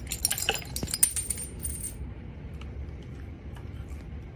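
Light metallic clinks and rattles, like small hard objects knocking together, for about the first two seconds, then a quieter stretch with a few faint ticks.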